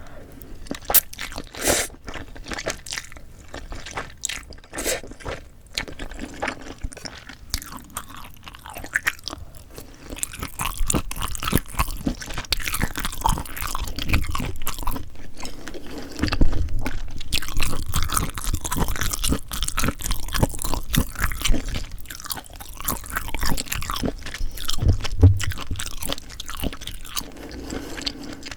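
A person chewing and biting food close to the microphone. Sharp, separate crunchy bites and mouth clicks come first, then from about a third of the way in a denser, louder stretch of continuous chewing.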